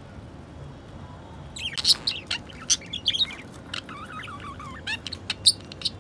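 Budgerigars chirping and warbling: quiet at first, then a run of sharp high chirps starting about a second and a half in, with a wavering warble in the middle.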